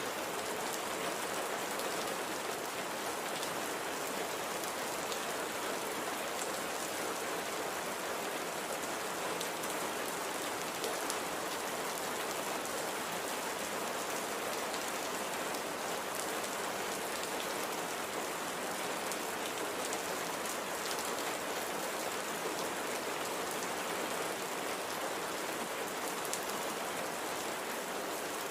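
Steady light rain falling on a surface, an even hiss dotted with fine drop ticks.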